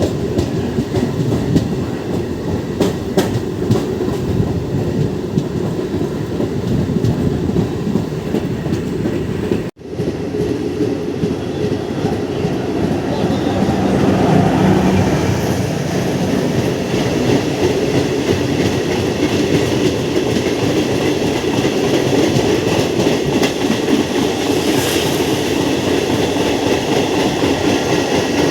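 MEMU electric commuter train running along the track, its wheels clattering over the rails. The sound cuts out for an instant about ten seconds in.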